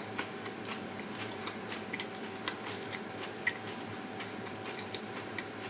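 Soft, irregular chewing and wet mouth clicks from someone eating eggplant stir-fried with fish miso, several small clicks a second, over a faint steady hum.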